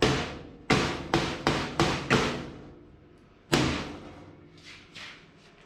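Hammer blows on steel, knocking a bent part back into line. Six blows come in quick succession, then one more about a second and a half later, each ringing briefly, with two light knocks near the end.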